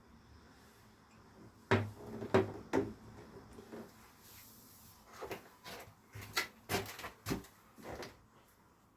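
Irregular wooden knocks and clatters from fitting ceiling panels: three loud knocks close together, then a string of lighter taps a few seconds later.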